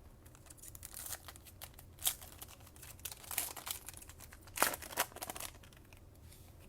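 Foil wrapper of a trading-card pack crinkling and tearing as the pack is opened, with cards handled: a series of irregular crisp crackles and rustles, loudest about two seconds in and again around four and a half to five seconds.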